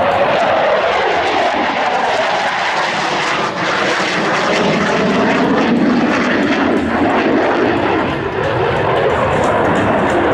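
Rutan Long-EZ's Lycoming IO-360 engine and pusher propeller flying past. The engine pitch slides down over the first few seconds, then rises again near the end.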